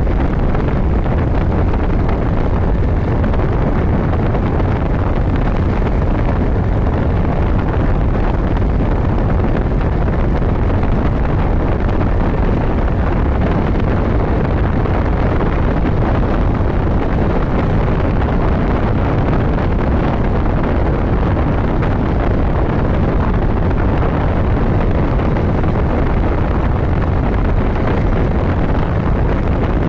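Steady, loud wind rush over the microphone of a motorcycle riding at road speed, mixed with the motorcycle running underneath, unbroken throughout.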